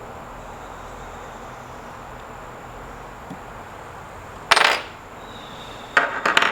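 Sharp clacks, like hard parts knocked or set down: one loud clack about four and a half seconds in, then a quick run of three or four near the end, over a steady background hiss.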